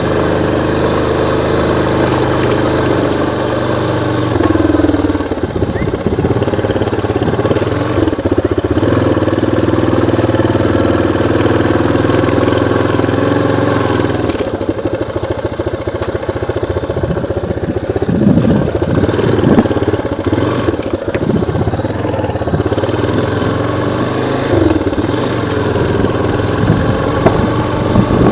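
Yamaha Lander 250 motorcycle's single-cylinder engine running, its pitch stepping and swinging up and down several times as it revs.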